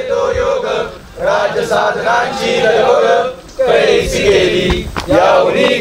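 A chorus of male voices singing in unison with long held notes, breaking off briefly about a second in and again about three and a half seconds in.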